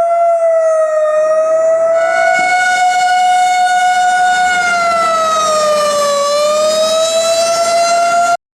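Emergency vehicle siren wailing, holding a high pitch that sinks slowly and climbs back near the middle. It cuts out abruptly for a moment just before the end.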